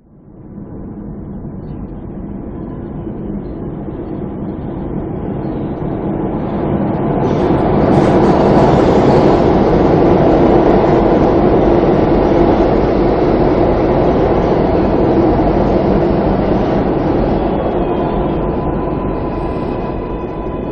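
New York City subway train running, its rumble and rattle starting suddenly and growing louder over the first eight seconds, then holding steady. A faint steady whine comes in near the end as the sound eases a little.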